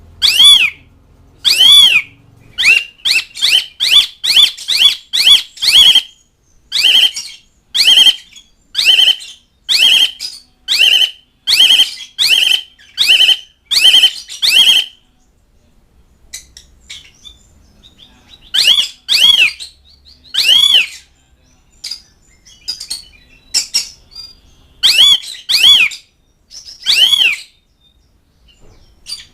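Asian pied starling (jalak suren) calling: loud, short, repeated notes delivered in a fast run, then a lull with a few faint notes before further loud calls. This is the calling used to summon companions and challenge rivals.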